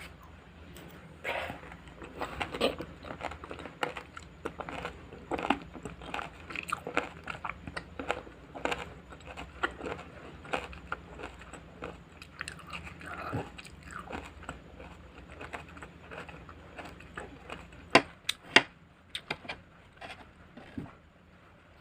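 Close-miked crunching and chewing of raw salad vegetables, bite after bite, with a few louder sharp clicks about three-quarters of the way through.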